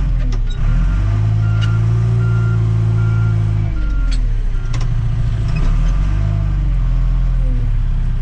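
Tractor-loader-backhoe's diesel engine working steadily, with a whine that rises and falls as the load changes. A backup alarm beeps regularly from about one to four seconds in, and a few sharp knocks come through.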